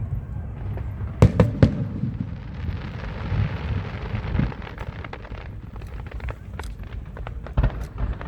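Aerial fireworks bursting: a quick cluster of sharp bangs about a second in, then a few seconds of dense crackling hiss, and two or three more bangs near the end.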